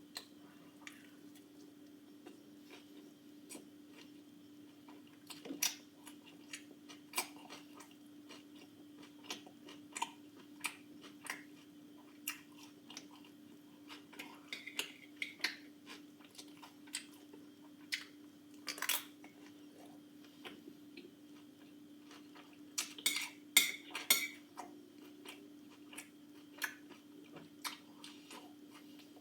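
A utensil clinking and scraping against a dish, with chewing, during a meal: scattered sharp clicks, a quick cluster of them near the end, over a faint steady hum.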